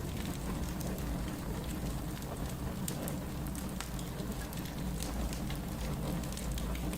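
Wood fire crackling: a steady low rumble with frequent sharp pops and crackles.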